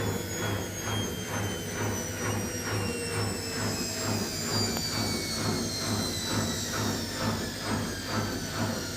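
Washing machine with shoes in the drum slowing down at the end of a 1200 RPM spin: a falling motor whine over a low pulsing about twice a second as the drum turns.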